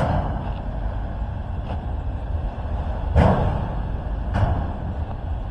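A passing train: a steady low rumble with a few sharp knocks, the loudest a little past halfway.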